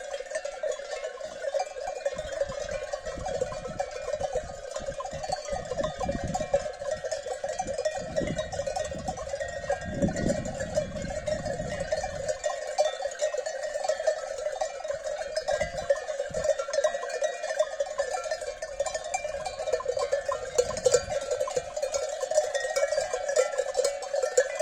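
Many livestock bells clanking continuously and unevenly, with low wind rumble on the microphone between about 6 and 12 seconds in.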